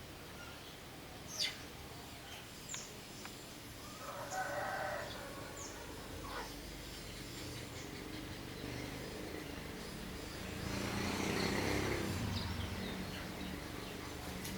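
Rural outdoor ambience with a few short, sharp chirps from small birds and a rooster crowing in the background about four seconds in. A louder, noisier swell rises and falls near the end.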